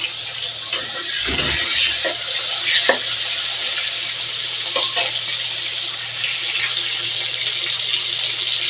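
Prawns frying in hot oil in a kadai, a steady sizzling hiss, with a few sharp clicks and knocks.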